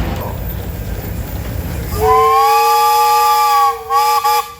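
Steam engine whistle: after a low steady rumble, it sounds about halfway in as a loud chord of three notes held for about two seconds, then gives two or three short toots and cuts off.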